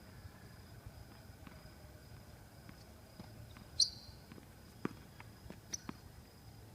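Tennis ball play: one sharp, loud hit about four seconds in, followed by a few lighter knocks of the ball off racket and court.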